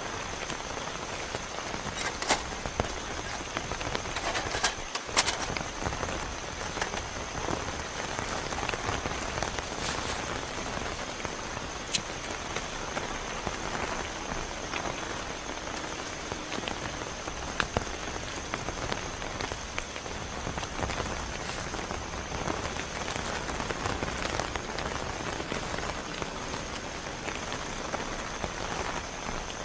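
Heavy rain falling steadily, with scattered sharper drop impacts standing out, the loudest about two, five and twelve seconds in.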